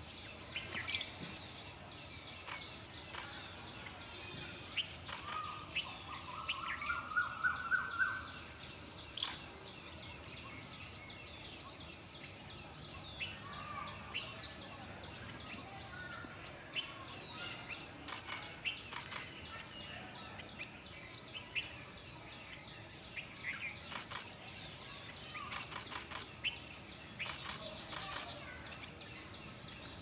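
Wild birds calling in woodland: a high, falling note repeated about once a second, with a short rising trill about six to eight seconds in and a few sharp clicks.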